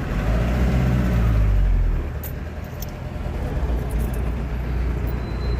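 Van engine and road rumble heard from inside the cab, loudest for the first two seconds with a falling pitch as the van slows, then a steadier, quieter rumble.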